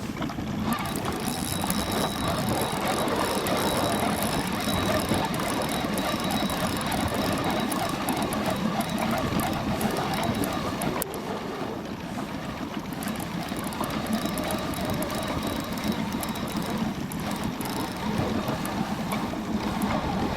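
Spinning reel being cranked steadily while fighting a hooked zander, a continuous mechanical whirring with fine clicking, over wind and water noise.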